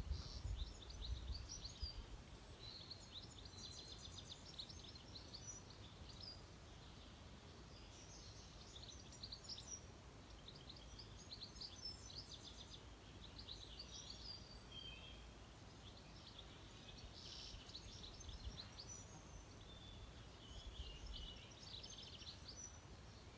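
Faint birdsong: small birds chirping in short high phrases and trills on and off, over a quiet outdoor hiss, with a low rumble in the first couple of seconds.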